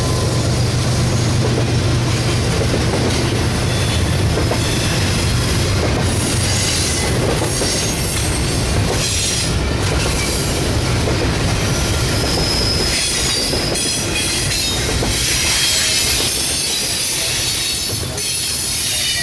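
Train cars rolling past on steel rails, with the clatter of wheels over the track and high wheel squeals.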